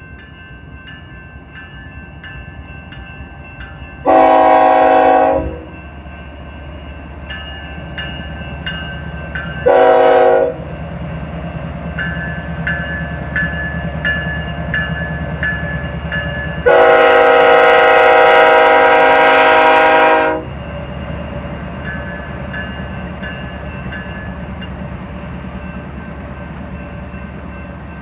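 GE ES44DC diesel locomotive pulling an intermodal train away, its engine rumble building, and sounding its horn three times: a blast of about a second and a half, a short one, then a long blast of nearly four seconds.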